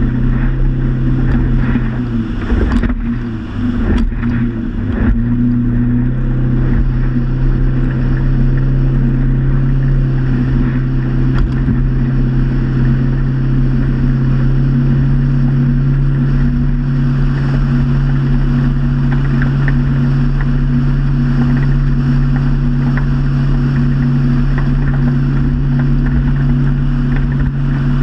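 Motorboat engine running steadily under way. A few seconds in, its pitch briefly dips and wavers, with a couple of sharp knocks, then it settles back to a steady drone.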